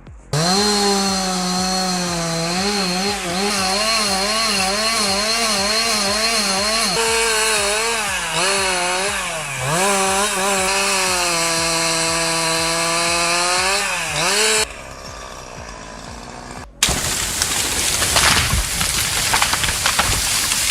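Chainsaw running at high revs while cutting, its pitch wavering and dipping again and again as the chain loads in the wood. The engine note drops away about fifteen seconds in. After a sudden change, a rough, noisy rushing sound follows.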